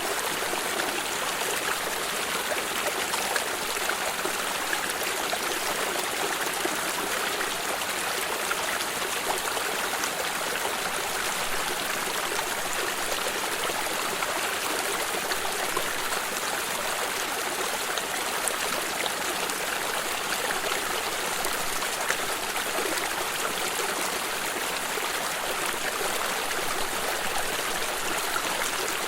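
A water stream running steadily: a continuous trickling rush, bright and even, with little deep rumble.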